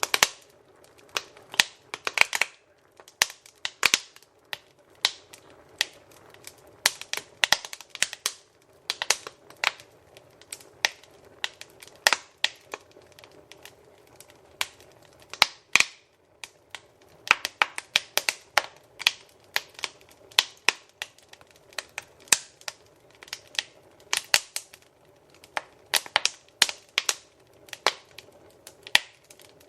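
Wood fire in a fireplace crackling, with sharp, irregular pops and snaps several times a second over a faint steady hiss of the flames.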